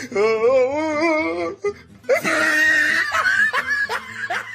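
A long wavering high cry, then a person laughing hard, ending in quick short ha-ha breaths.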